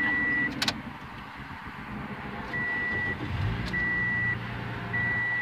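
2007 Toyota Yaris 1.5 L four-cylinder engine starting and settling into a steady idle about three and a half seconds in, after a click near the start. A dashboard warning chime beeps at an even pace, about once a second, before and after the engine catches.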